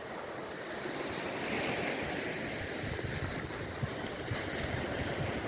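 Sea waves washing on the shore in a steady hiss, with wind rumbling on the microphone.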